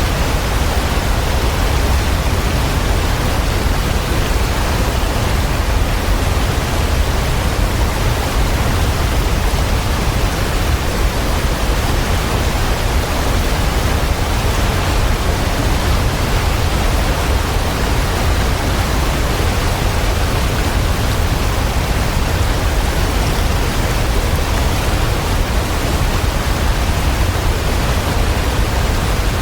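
Waterfall: a steady, unbroken rush of falling water with a deep low rumble underneath, unchanging throughout.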